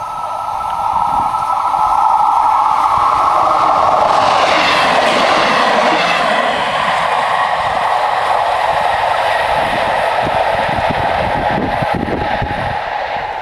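Level-crossing warning bells ringing steadily while a passenger train passes over the crossing. The train noise swells in over the first two seconds, is loudest from about four to six seconds in with a falling sweep of pitch, then eases while the bells keep ringing.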